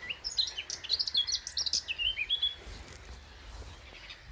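European robin singing a varied phrase of high, quick warbling notes that stops about two and a half seconds in, over a low wind rumble.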